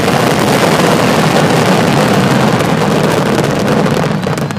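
A massed barrage of aerial fireworks bursting continuously, the shells' reports merging into one dense, loud roar with crackling on top.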